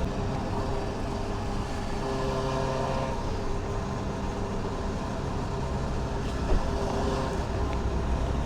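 Fuel dispenser pump running steadily with a hum while filling a motorbike's tank, with a single brief knock about six and a half seconds in.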